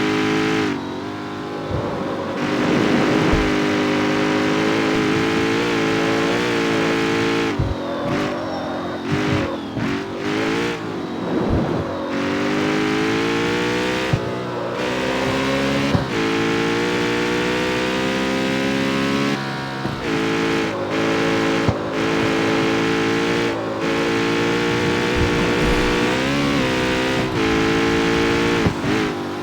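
Jaguar F-Type's supercharged 5.0 V8 pulling through the gears, its pitch climbing and then dropping back at each shift several times, with sharp exhaust crackles and pops when the throttle lifts.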